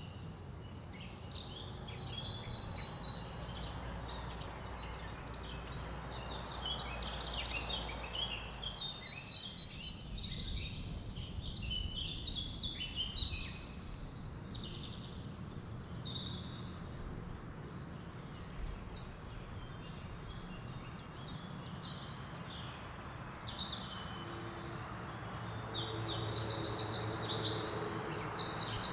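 Woodland birdsong: several birds singing and calling at once, a chorus of overlapping chirps and trills. About 25 seconds in, a louder song of rapid repeated notes joins in.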